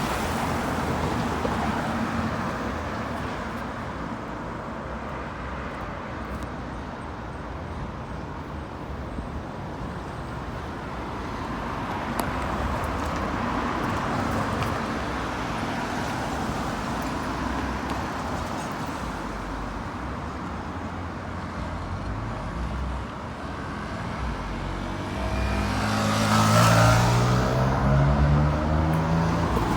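Road traffic going by: a steady wash of tyre and engine noise as cars pass. Near the end a heavier vehicle passes close, the loudest moment, with its engine note clearly heard changing pitch.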